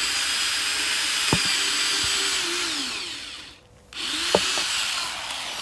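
Electric power saw running as it cuts firewood, with a steady high-pitched motor whine. It cuts out for about half a second midway, then starts up again.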